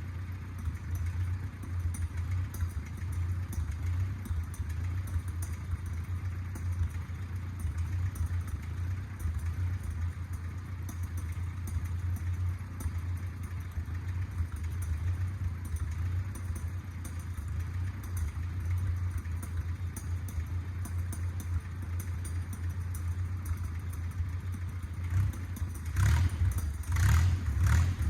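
Small 1950s bulldozer's engine running steadily at a low pitch. Near the end it gets louder, with several short clattering sounds.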